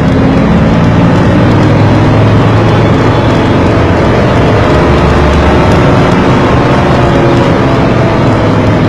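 Car engine and road noise picked up by a dash cam while driving, a steady loud drone whose pitch drifts slowly.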